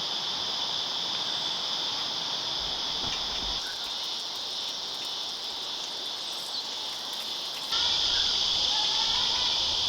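Steady, high-pitched summer insect chorus droning without a break, which jumps suddenly louder near the end.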